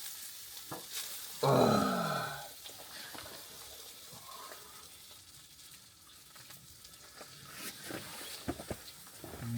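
Food sizzling faintly in a frying pan, with a few light clicks. About one and a half seconds in, a man lets out a low groan that falls in pitch and lasts about a second.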